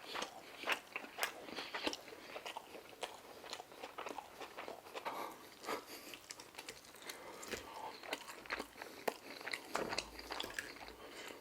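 A person chewing food close to the microphone, with many small irregular crunches and wet mouth clicks.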